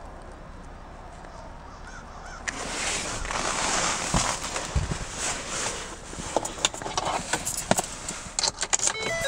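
Fabric and seatbelt webbing rubbing over the microphone inside the car, a loud rustling with scattered sharp clicks that starts suddenly a couple of seconds in after a quiet stretch. Near the end the car's electronic chime begins, a run of beeping tones.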